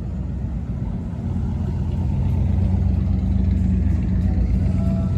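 Car engine running with a deep, steady rumble that gets louder about two seconds in, as if the car is drawing closer or being given more throttle.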